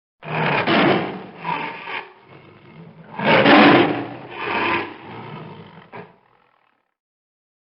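Two loud, rough farm-animal calls, each about two seconds long, the second one louder, fading out about a second before the end.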